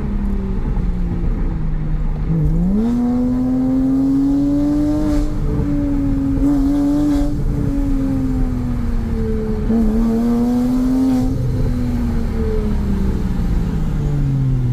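Porsche 987's flat-six engine through an aftermarket Euro Arts twin-valve exhaust, on the move. The engine note falls, then climbs steeply about two and a half seconds in as it accelerates, holds, dips briefly around ten seconds in, rises again and then falls away as it eases off near the end.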